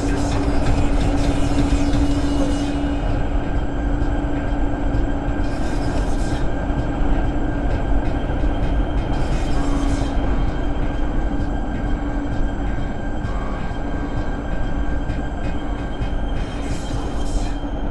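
Steady road and wind noise inside a moving car, with a constant engine hum and a high hiss that comes and goes every few seconds as the wind blows loose snow against the car.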